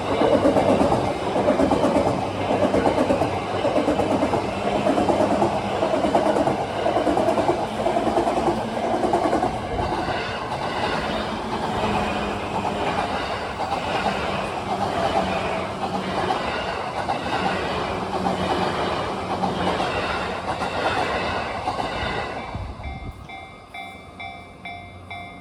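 Yamanote Line E235-series electric train running past over a level crossing, its wheels clattering rhythmically over the rail joints. It fades about three seconds before the end, leaving the crossing's warning bell ringing in an even repeating pattern.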